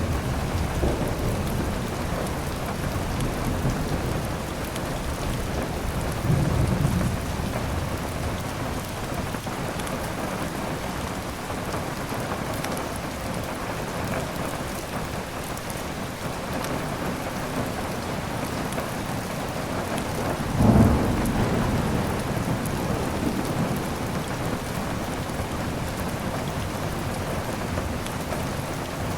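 Steady heavy rain with thunder rumbling twice: a low rumble about six seconds in and a louder one about two-thirds of the way through.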